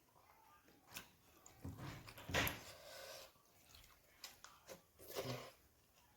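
Faint close-miked eating sounds: scattered mouth clicks and chewing, with two louder smacks, the first about two and a half seconds in and the second near the end.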